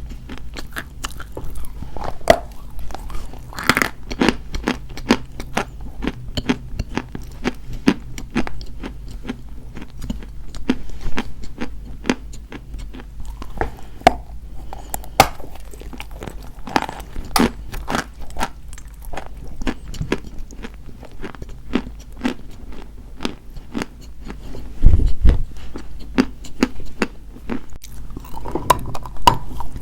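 Dry white chalk being bitten and chewed close to the microphone: a dense run of sharp, irregular crunches and crackles, with one heavier low thump a little before the end.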